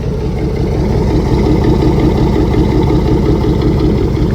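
1999 Chevy Tahoe's straight-piped exhaust, with no catalytic converters and no mufflers, running loud and steady with a fast, even rumbling pulse that gets slightly louder about half a second in.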